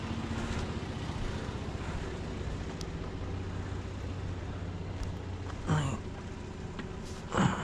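Jeep engine running, a steady low hum heard from inside the cabin, with two brief louder sounds near the end.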